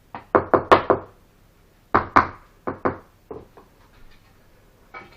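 A brick being tapped down into its mortar bed during fireplace bricklaying: a dozen or so sharp knocks in quick groups, the loudest run in the first second and another around two to three seconds in.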